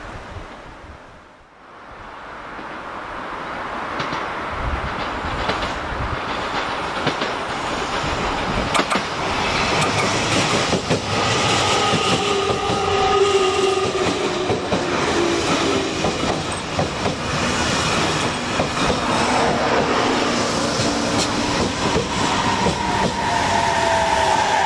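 JR Kyushu 817 series electric commuter train running alongside the platform, its wheels rumbling and clattering on the rails under whining, slightly falling tones. It grows louder from a couple of seconds in and is loud from about ten seconds on.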